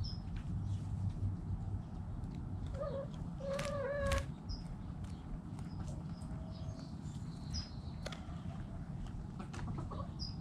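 Backyard chickens vocalising, with one drawn-out hen call about three seconds in. Brief high chirps from small birds come now and then over a steady low rumble.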